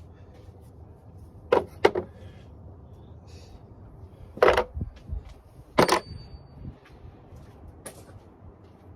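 Tools and car parts being handled: five sharp knocks and clatters. Two close together come about a second and a half in, two louder ones around four and a half and six seconds in, and a fainter one near the end.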